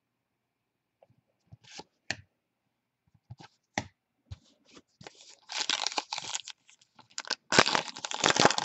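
A trading-card pack wrapper being handled and torn open: a few light taps and clicks, then from about five seconds in a dense run of crinkling and tearing that is loudest near the end.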